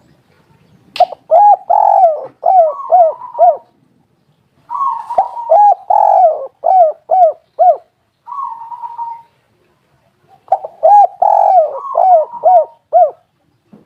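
Spotted dove cooing: three phrases, each a quick run of short arched coos with a longer note among them, and a single short coo between the second and third phrase. A brief click about a second in.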